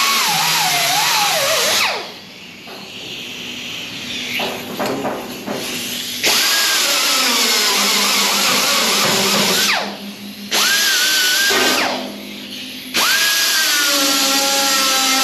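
Power grinder grinding out old welds on steel, run in several long bursts. Its motor whine sags and wavers as it bites into the metal, with short let-offs about two, ten and twelve seconds in.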